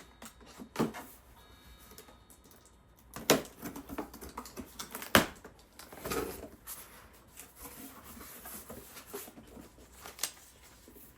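Cardboard box and packaging being handled while a humidifier is unboxed: scattered sharp knocks and taps, the loudest two about three and five seconds in, with a brief rustle about six seconds in.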